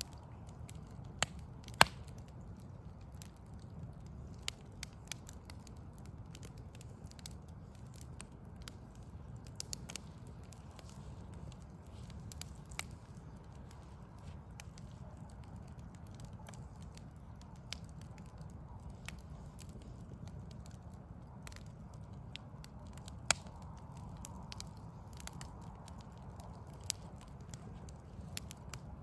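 Backyard wood fire of logs crackling, with irregular sharp pops scattered throughout; the loudest pops come about two seconds in and around two-thirds of the way through. A steady low rumble runs underneath.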